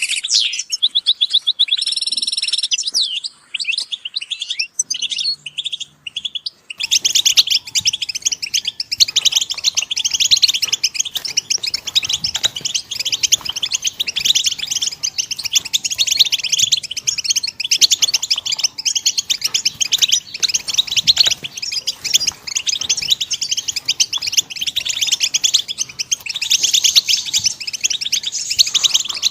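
European goldfinches singing and calling. A few separate twittering phrases come first; about seven seconds in, a dense chorus of many goldfinches chirping and twittering together starts and carries on without a break.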